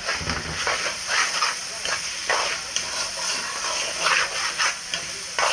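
Rice sizzling as it toasts in hot oil in a pot, with a steady hiss, while a spoon stirs through it in repeated short strokes.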